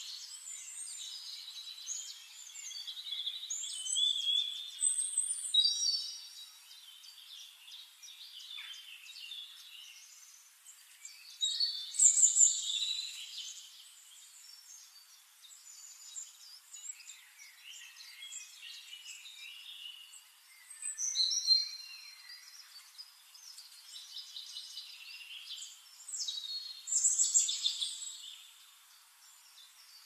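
Birds chirping and calling: a string of short chirps, trills and gliding whistles, with four louder bursts of calls spread through.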